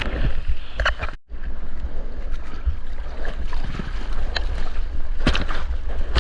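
Wind rumbling on a GoPro's microphone out in the surf, with water splashing around it a few times. The sound cuts out completely for a moment just after a second in.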